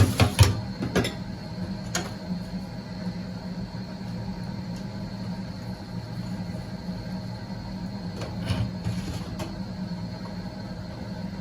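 A steady low machine hum with a faint high whine, broken by a few sharp clicks and knocks at the start and once more about two seconds in, and a short rustling noise near the end.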